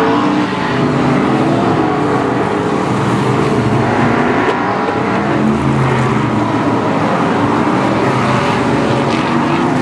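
Several BriscaF1 stock cars' V8 engines running hard together, their pitch rising and falling as the cars lap and pass by.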